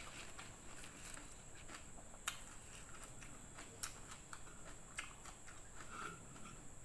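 Close-miked chewing: soft wet mouth sounds with scattered small clicks, and a few sharper clicks about two, four and five seconds in.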